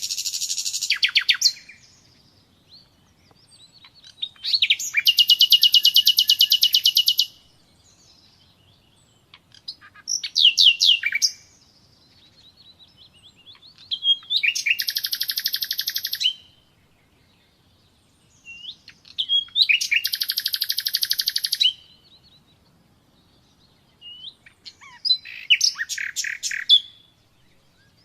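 Common nightingale singing: about six separate phrases of fast, rapidly repeated notes and short whistles, each phrase one to three seconds long, with pauses between them.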